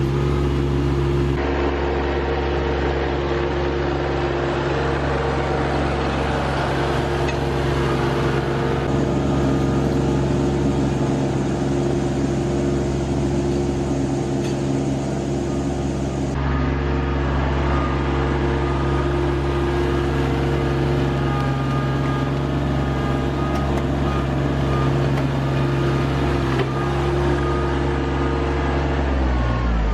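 Rural King RK25 compact tractor's diesel engine running steadily at working speed, slowing down right at the end.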